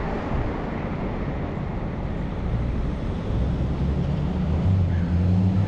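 Vehicle road noise while driving. From about halfway in, a low engine hum grows louder and climbs a little in pitch as the vehicle speeds up.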